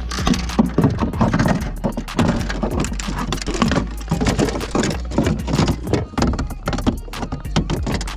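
Rapid, irregular knocking and rattling from handling on a kayak, over a steady low hum.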